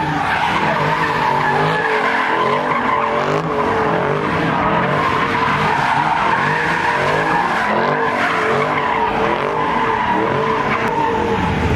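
Car tires squealing steadily as they spin and slide, over an engine revving up and down.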